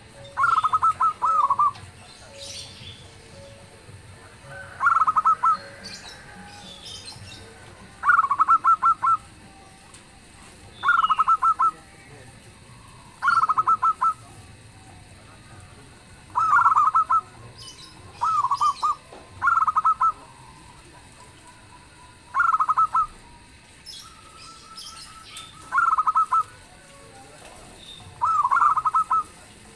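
Zebra dove (perkutut) singing its cooing song over and over: a phrase of several quick, rolling notes lasting about a second, repeated roughly every three seconds. Fainter, higher chirps of other birds sound between the phrases.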